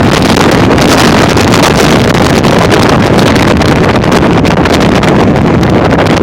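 Strong wind gusting at around 40–60 mph hits the microphone hard: a loud, continuous roaring rush with no letup.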